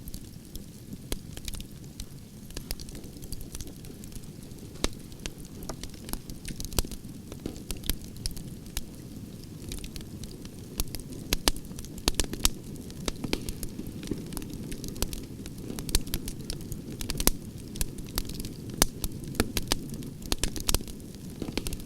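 Campfire logs burning with a steady low rumble of flame and frequent sharp, irregular crackles and pops.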